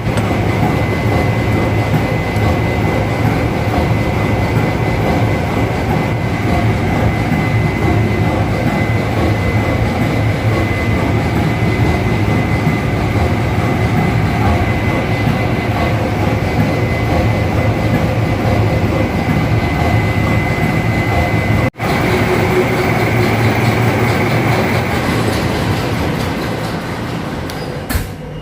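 Ship's engine-room machinery running: a loud, steady mechanical din with a thin steady whine over it, broken by a momentary cut about 22 seconds in before it carries on.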